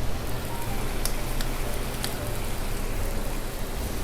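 Curry simmering in a pan on a gas stove: a steady hiss, with a few light clicks.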